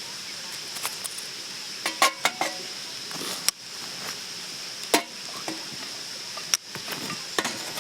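Metal cookware and utensils clinking and knocking in a handful of sharp separate strikes, over a steady high hiss.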